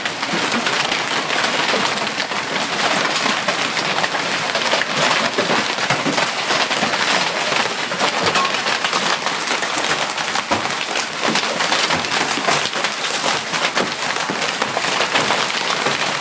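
Hail pelting down hard: a dense, steady clatter of countless hailstone impacts over a rushing hiss of falling ice and rain.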